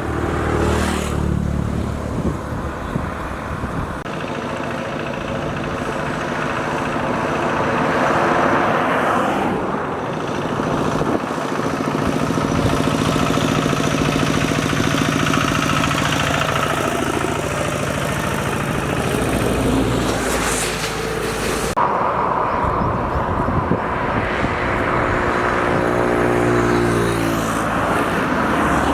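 Motor vehicles passing on a road: a steady rush of traffic noise, with engine tones that rise and fall in pitch as each vehicle goes by. The sound changes abruptly about three quarters of the way through, and a last vehicle passes with a falling engine tone near the end.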